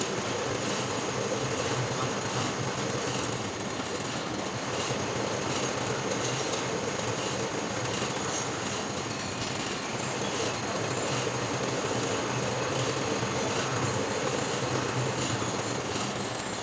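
Metal lathe running steadily, turning a workpiece, with an even mechanical noise throughout.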